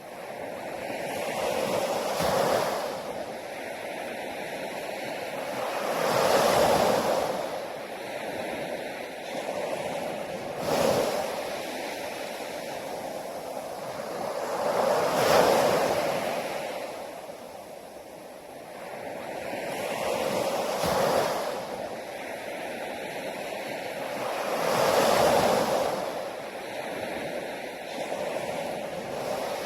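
Ocean surf: waves rolling in and breaking on a shore, six surges about four to five seconds apart, with a steady wash between them.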